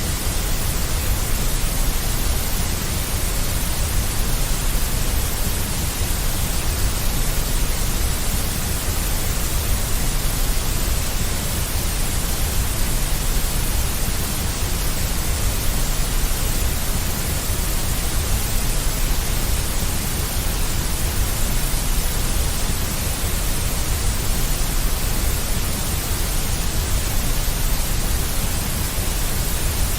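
Steady, unchanging synthetic white noise with a strong deep low rumble under a bright hiss.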